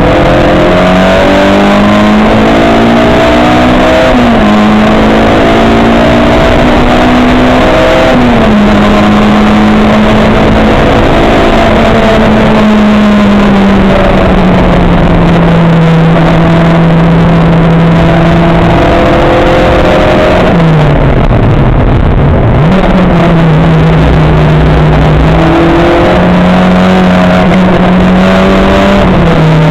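Race car engine running hard, its pitch repeatedly changing in steps as it goes through the gears. About twenty seconds in the engine speed drops sharply and then climbs again.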